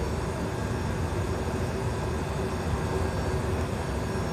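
Engine running steadily on a test run: a continuous low rumble with a faint constant hum, without changes in speed.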